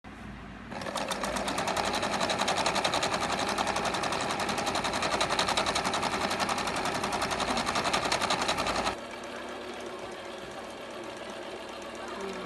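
Janome electric sewing machine running at speed, a fast even rattle of stitching strokes. It stops about nine seconds in, leaving a quieter steady sound.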